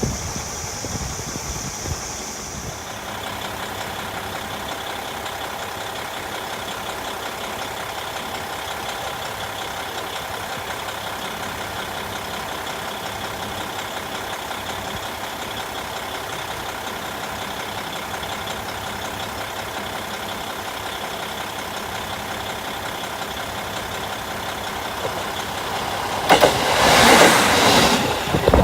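KiHa 40 diesel railcar's engine idling steadily at a station. A high thin whine fades out about two seconds in, and a loud rushing noise swells and passes near the end.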